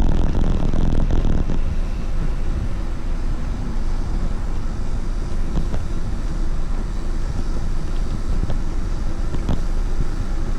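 Wind rumbling steadily on the microphone of a camera carried on a moving rider, strongest in the low end.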